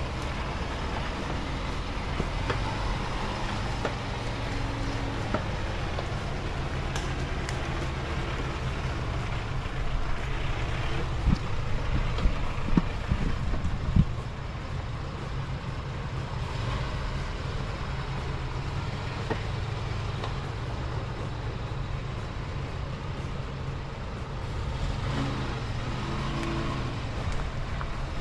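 Off-road vehicle engine running steadily, with a cluster of knocks and bangs about ten to fourteen seconds in.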